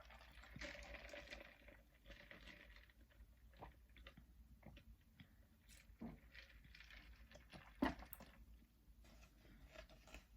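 Faint chewing and crunching of food close to the microphone, with small mouth clicks scattered through and one sharper click a little before 8 seconds in.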